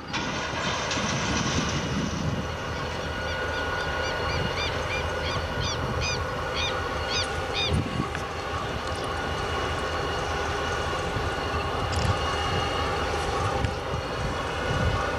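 Freight train hauled by three diesel-electric locomotives approaching on a curve, engines running steadily with the rumble of wheels on the rails. A series of short, high chirps sounds between about four and eight seconds in.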